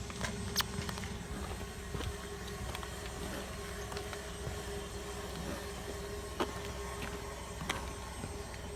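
Car rolling at a crawl with a tire making noise: a low steady rumble and faint hum, with a few sharp clicks at irregular intervals.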